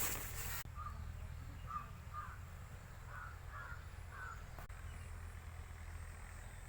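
A bird calling: about seven short calls, some in pairs and threes, over the first four seconds or so, above a steady low rumble.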